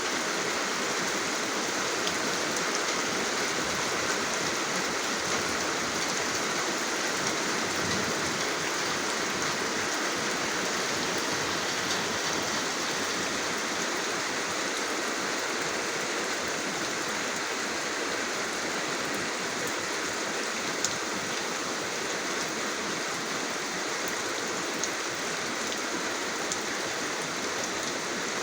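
Steady rain falling, an even dense hiss of drops on a surface with a few sharper drop ticks standing out.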